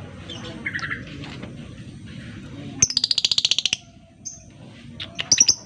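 Lovebird calling: a few short shrill chirps, then a fast run of about fifteen sharp chirps in under a second, and another few chirps near the end.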